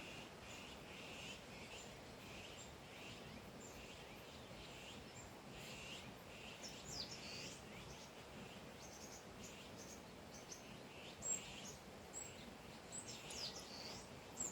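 Wild birds chirping, short calls repeating about once a second with a few quick high chirps, over a faint steady hiss. One brief sharper sound stands out about three-quarters of the way through.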